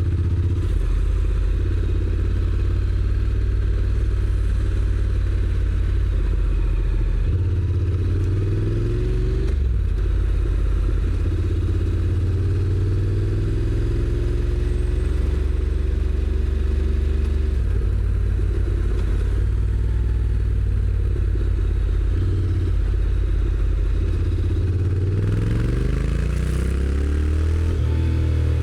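Honda NC750X's parallel-twin engine, through its stock exhaust, running under way. Its pitch rises several times as the bike accelerates, most plainly near the end.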